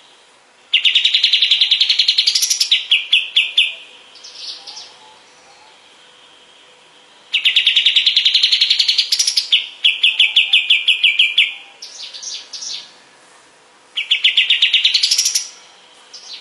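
Kapas tembak songbird singing three loud phrases a few seconds apart: each a fast, even trill that rises in pitch, followed by a short run of lower rapid notes and a few softer calls.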